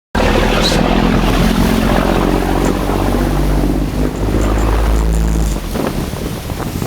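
Fishing boat's engine running at sea, a steady low drone under wind and water noise; the drone eases off about five and a half seconds in.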